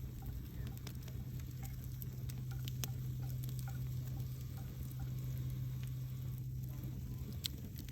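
Wood campfire burning, with irregular crackles and pops over a steady low rumble of the flames.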